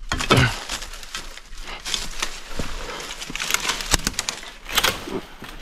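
Rainforest sounds: rustling and crackling, with a bird calling.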